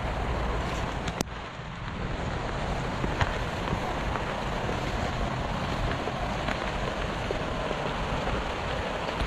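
Steady hiss of rain, with wind buffeting the microphone and a sharp click about a second in.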